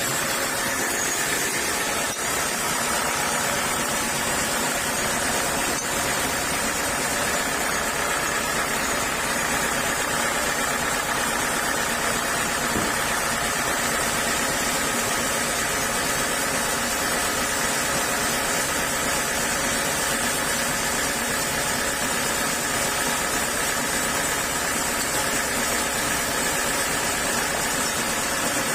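Sawmill saw machinery running steadily, a constant mechanical hum and hiss with no change in level.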